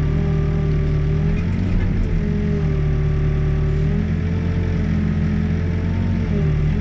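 Backhoe's diesel engine running steadily at working speed while digging, with a higher tone over it that dips and rises a little.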